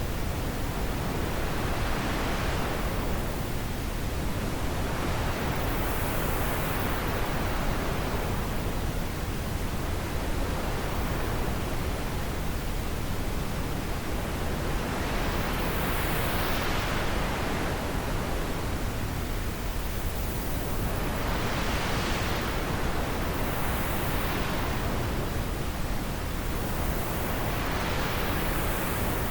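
Wind blowing steadily, a constant rushing noise that swells and eases in gusts every few seconds.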